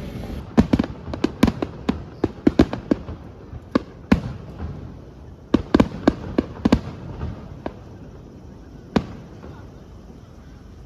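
Aerial fireworks going off: a rapid string of sharp bangs over about six seconds, coming in quick clusters, then one last bang near the end.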